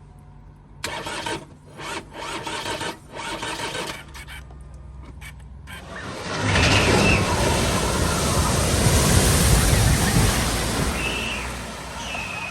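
A vehicle driving through deep flood water at a ford, with a loud rushing splash that builds about six seconds in, holds for several seconds and then eases off. Before it come a few short bursts of noise.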